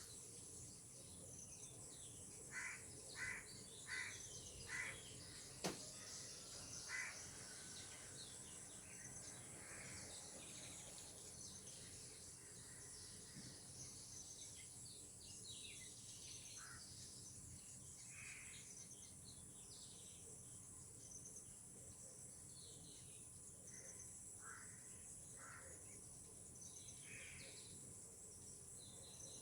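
Faint natural ambience of insects shrilling steadily with scattered bird calls. A run of four short, evenly spaced bird notes comes a few seconds in, followed by a single sharp click, the loudest sound, and further single calls later on.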